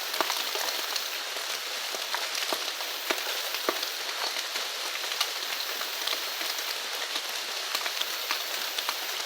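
Steady rain falling, with individual drops pattering and ticking close by.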